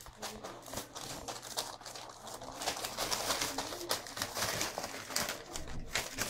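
Beagle puppy making soft, cooing whimpers, with rustling and scratching noises from its movement.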